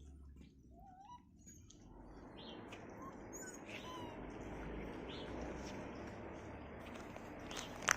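Puppies giving scattered short, high squeaks and whimpers over a growing rustling noise.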